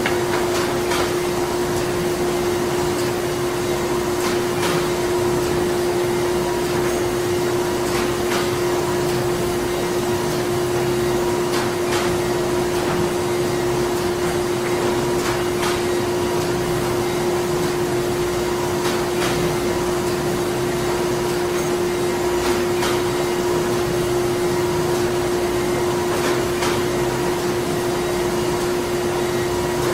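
Printing-plant machinery running steadily: a constant machine noise with a steady hum tone and faint clicks every few seconds.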